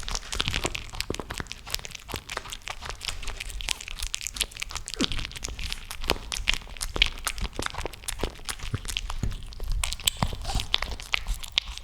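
A cat chewing and crunching food close to the microphone: a quick, irregular run of crunchy, tearing bites.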